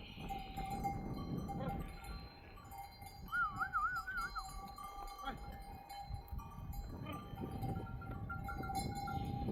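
Bells on a grazing flock of sheep ringing and clinking steadily, with a short wavering call about three seconds in and a low rustle of the moving herd underneath.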